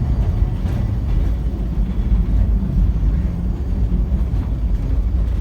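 Great Orme cable-hauled tramcar running, a steady low rumble heard from on board.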